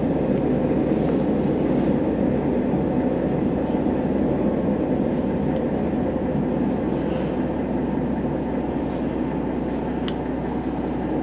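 Inside a Sanriku Railway diesel railcar running along the line: a steady rumble of engine and wheels on rail, with a couple of faint clicks.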